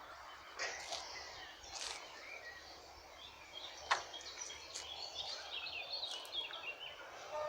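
Outdoor ambience with birds chirping: quick runs of short high notes, most of them past the middle. A few sharp clicks or knocks sound through it.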